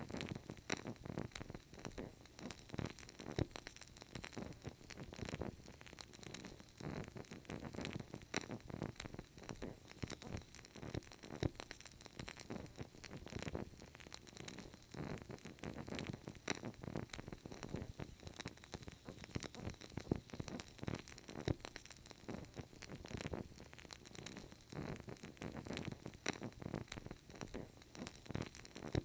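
Burning candle: a steady stream of small, irregular crackles and pops from the flame and wick over a faint hiss.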